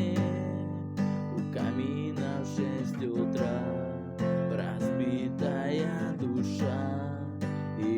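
Acoustic guitar strummed, playing chords.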